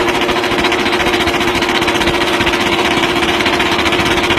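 Motorcycle engine running at steady revs, a loud, rapid, even pulsing that holds one pitch throughout.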